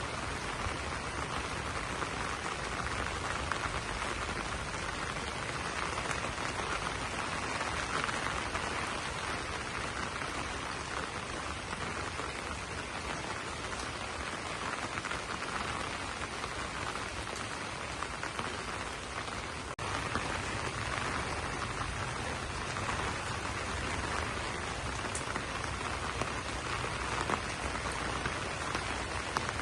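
Steady rain pattering on banana leaves, a dense, even hiss of drops with most of its energy in the middle range. There is one brief dip in the sound about two-thirds of the way through.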